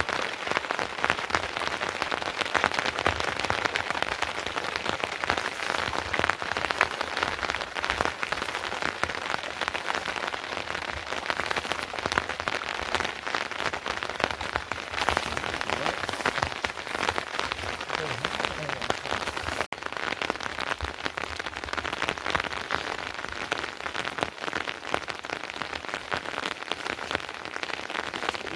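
Steady rain falling, a dense even hiss of many close drops hitting a surface.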